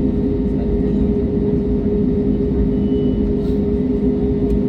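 Jet airliner engines during takeoff, heard from inside the passenger cabin as a loud, steady hum with a strong, even drone.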